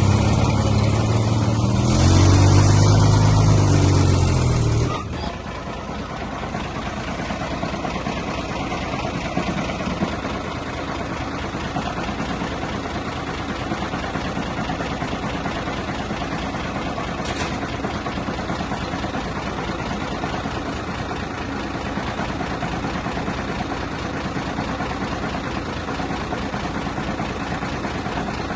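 Heavy diesel engine of earthmoving equipment revving loud, its pitch rising and falling, then dropping abruptly about five seconds in to a quieter, steady engine running.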